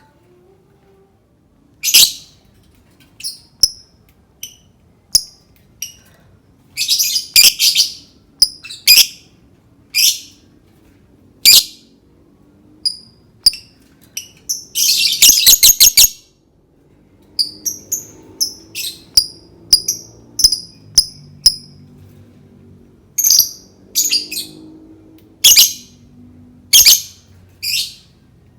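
Lovebird calling: short, shrill, high-pitched chirps at irregular intervals, with a rapid chattering run of chirps lasting about a second about halfway through.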